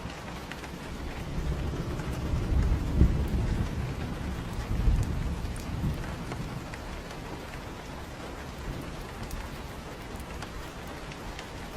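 Steady rain pattering, with scattered sharp drops. A low rolling rumble of thunder builds about a second in, swells twice and dies away past the middle.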